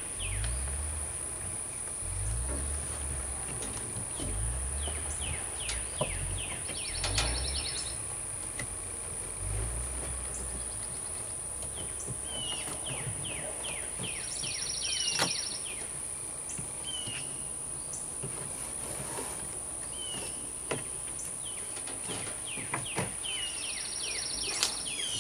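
Outdoor ambience: a songbird sings a phrase of quick falling notes ending in a buzzy trill, several times over, above a steady high insect drone. Low rumbling fills the first ten seconds, and a few scattered clicks and knocks come as the door's window frame is worked loose from its sealer tape.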